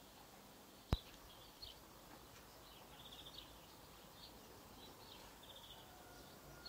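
Faint birdsong: small birds chirping with short trills against quiet rural background. A single sharp click about a second in.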